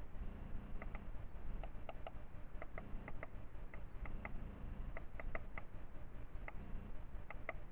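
Birds at a feeder making short sharp ticks, many in quick pairs, scattered through the few seconds over a steady low background hiss.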